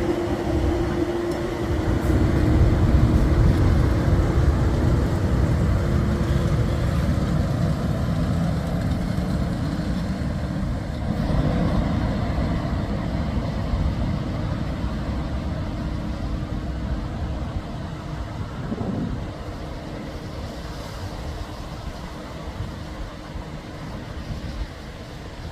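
A locomotive-hauled train rumbling past with a steady low engine tone, growing steadily fainter as it moves away. A short rise and fall in pitch comes near the end.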